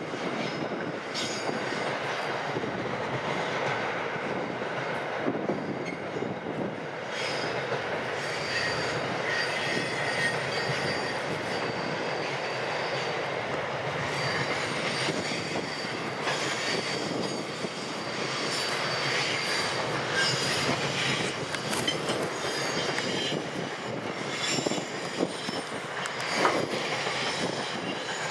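Long container freight train rolling past, a steady rumble of wagons on the track with faint high wheel squeal. A single sharp knock about two seconds before the end.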